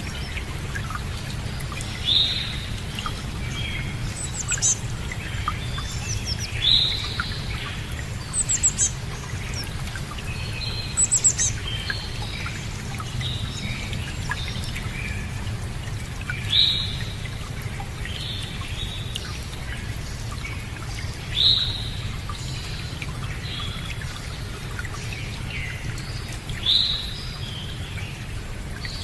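Wild birds singing and calling, one bird repeating a short call about every five seconds and another giving high trills, over a steady low background rush.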